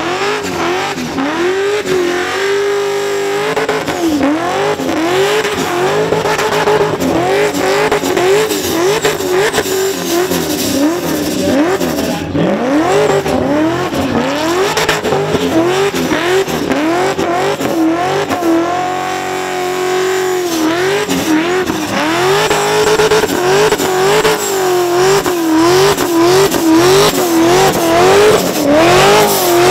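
Supercharged Holden Commodore's engine revving hard through a burnout, its pitch swinging up and down again and again as the throttle is worked, held steady briefly twice, over the noise of the spinning rear tyres.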